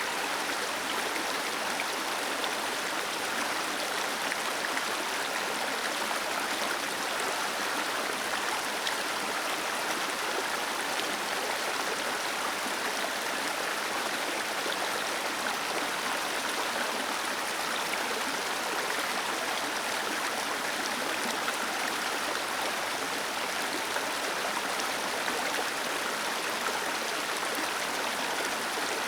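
Small waterfall splashing and cascading into a stream, a steady even rush of falling water.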